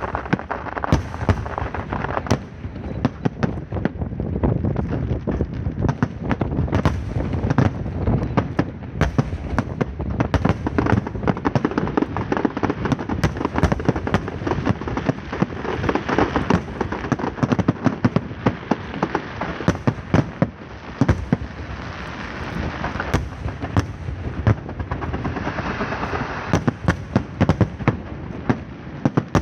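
Fireworks and firecrackers going off in a dense, unbroken barrage of rapid overlapping cracks and bangs.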